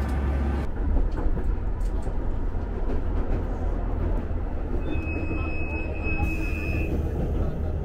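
Interior of a diesel railcar under way: a steady low rumble of the engine and the wheels on the track. About five seconds in, a thin high squeal holds for about two seconds.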